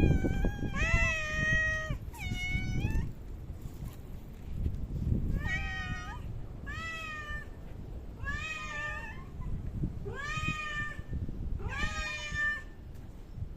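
A cat meowing repeatedly: about seven drawn-out meows, each under a second long, with a longer pause after the first two.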